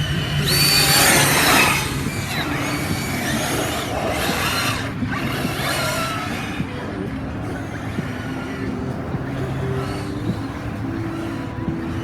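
Large electric RC cars driving hard, their motors whining up and down in pitch as they speed up and slow down, over a rush of tyre and ground noise, with louder surges about a second in and again about four seconds in.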